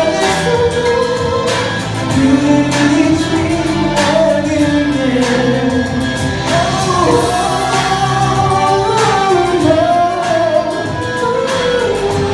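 A pop ballad sung live over a backing track: a solo voice holding long, gliding notes, with a slow, steady drum beat.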